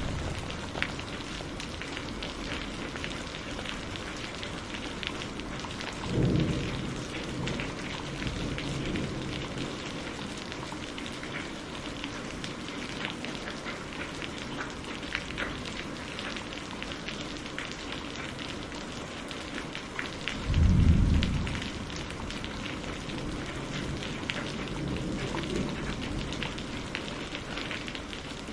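Steady rain falling, with many small drop ticks. Low thunder rumbles swell up about six seconds in, more strongly about two-thirds of the way through, and faintly near the end.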